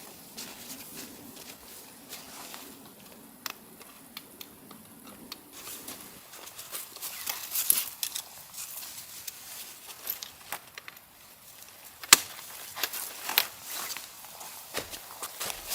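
Irregular clicks, knocks and crunches from someone moving about and handling things, the sharpest knock a little after twelve seconds, with a low steady hum during the first six seconds.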